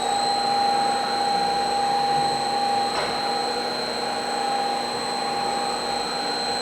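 MACC 391AV twin-column automatic bandsaw running its automatic cutting cycle: a steady mechanical whir with a constant whine, which steps up in level just as it begins.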